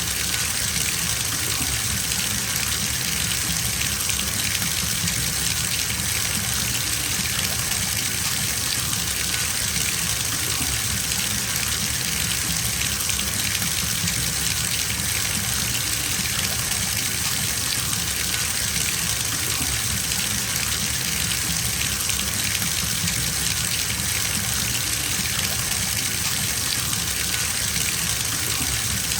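Bathtub filling from a running tap: a steady gush of water splashing into the tub, with no change in level or rhythm.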